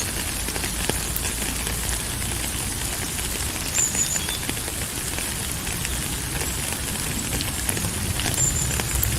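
Steady rain falling, a dense patter of drops over a low rumble. Two brief high-pitched chirps come through, about four seconds in and again near the end.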